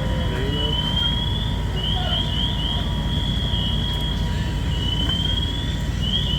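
Fire apparatus diesel engine running steadily with a heavy low rumble. Over it, a high-pitched siren sweeps upward again and again: slow rises alternating with quick chirps.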